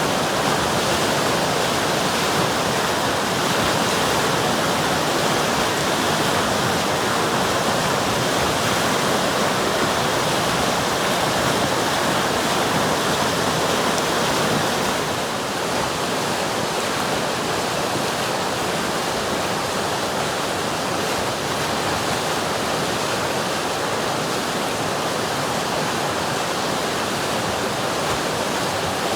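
River water rushing in a steady, dense wash, a little softer from about halfway.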